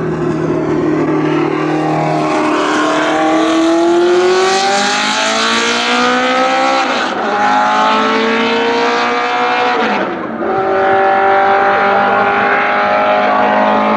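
Racing car engine accelerating hard through the gears, its pitch climbing steadily, with a quick upshift about seven seconds in and another about ten seconds in.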